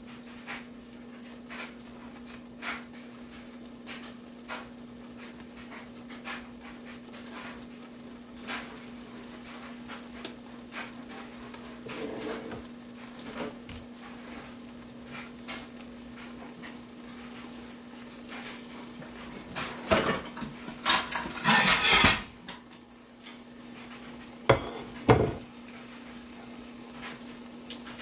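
Kielbasa sizzling in a covered pan, with scattered small pops and a steady low hum. Louder clattering of dishes comes about twenty seconds in and again a few seconds later.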